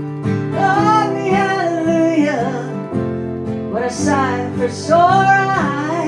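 A woman singing two phrases of a folk-country ballad over a strummed acoustic guitar, with a short gap between the phrases.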